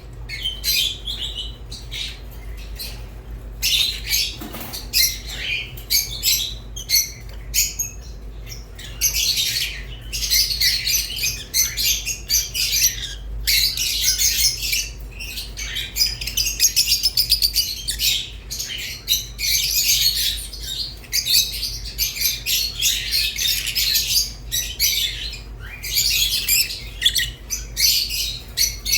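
Rosy-faced and Fischer's lovebirds chattering: rapid, shrill chirps and squawks in long bursts with brief pauses between them.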